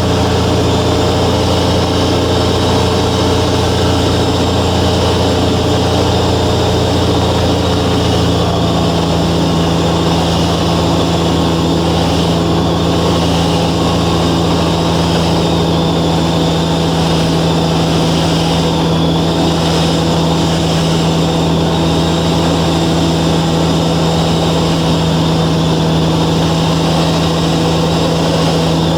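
The Velocity S-FG's 180 hp engine and pusher propeller running steadily, heard from inside the cabin as a loud, even drone. Its note shifts slightly about eight seconds in.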